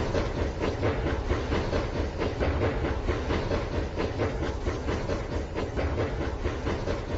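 Rail King toy train running on its track: a steady motor whir with continuous rapid clicking and rattling.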